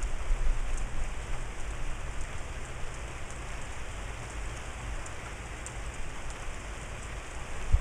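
Steady rain falling on grass and leaves, a constant hiss with faint scattered drop ticks and a low rumble underneath.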